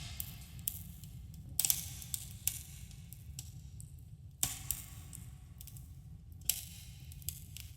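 Campfire crackling, with irregular sharp pops and snaps over a steady low rumble; the louder pops come at about 1.5, 4.5 and 6.5 seconds in. The pops carry a slight echo, as in a cave.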